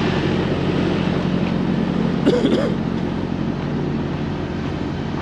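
Semi-truck diesel engine running steadily at low speed while the truck creeps through a tight turn. A brief, short pitched sound stands out about two and a half seconds in.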